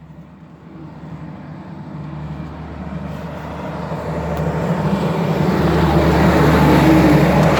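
2009 Kenworth W900 semi truck approaching on its diesel engine, its engine hum and tyre noise growing steadily louder until it is close and loudest near the end.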